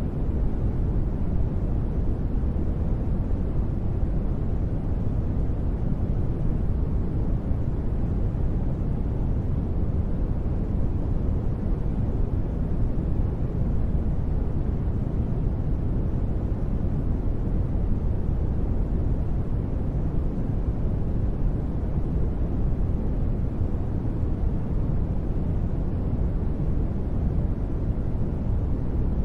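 Steady synthetic sleep noise, sold as white noise: an even, deep rushing hiss that is heaviest in the bass with little treble, never changing in level.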